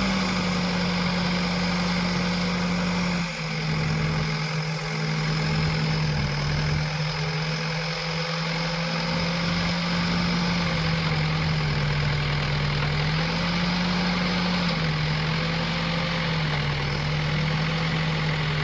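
Backhoe loader's diesel engine running steadily. Its speed rises and falls slightly several times, with a short drop about three seconds in.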